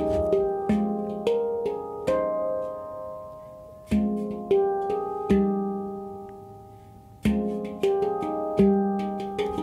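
F minor handpan being played by hand: struck notes that ring and fade, a flurry of notes, then two single strokes left to ring out, and a busier run again near the end.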